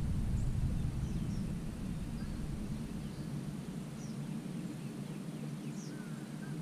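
Outdoor ambience of short, faint bird chirps scattered over a low rumble that fades about halfway through.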